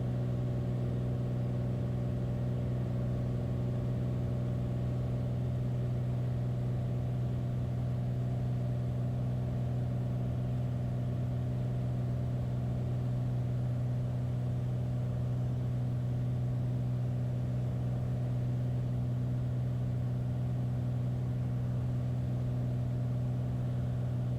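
Beechcraft Bonanza A36's six-cylinder piston engine and propeller droning steadily inside the cockpit, propeller set at 2,500 rpm, with no change in pitch or level.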